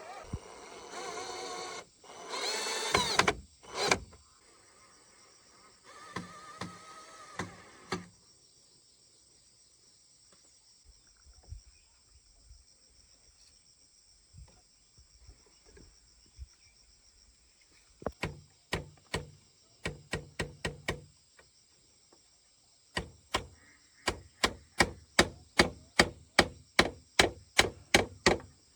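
Hammer striking wood: a few quick blows, then a steady run of about two blows a second in the second half. Near the start an animal calls a few times.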